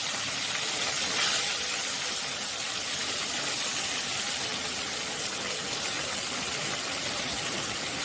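Prawns frying in hot mustard oil in a wok, giving a steady sizzle.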